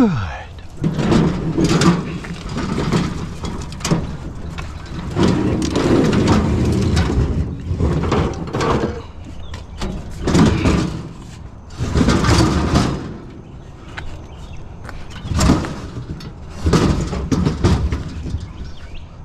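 Curbside junk being moved and loaded by hand: a run of irregular clatters, scrapes and thumps, each lasting a second or two, with a short falling squeal at the very start.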